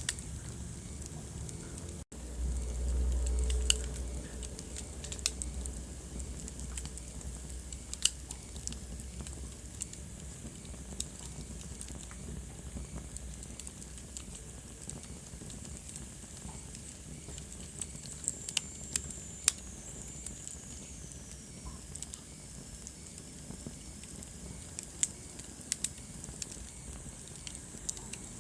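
Wood fire crackling: irregular sharp pops and snaps over a steady hiss. About two seconds in there is a brief dropout, then a low rumble for about a second and a half; later a faint high whistle slides down in pitch.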